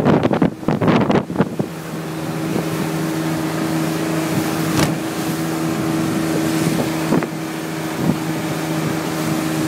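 Wind buffeting the microphone for the first second or so, then a motorboat engine running at a steady pitch, with a couple of sharp knocks partway through.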